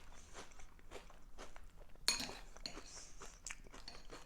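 A person chewing a mouthful of Cinnamon Toast Crunch cereal soaked in orange juice, with many small irregular crunches close to the mic. A sharper click with a short ring comes about two seconds in.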